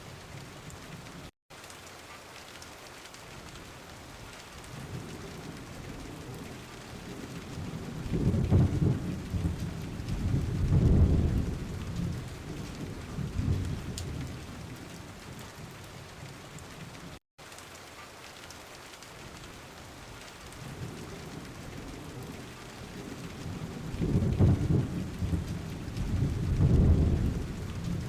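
Steady rain with rolling thunder: a long low rumble swells up about a third of the way in and another near the end. The sound cuts out for an instant twice.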